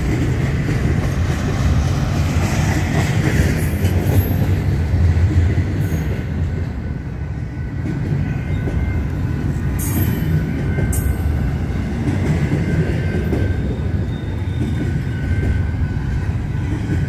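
Double-stack intermodal container cars of a long freight train rolling past close by: a steady low rumble of steel wheels on rail, with a few sharp clanks and a faint high wheel squeal.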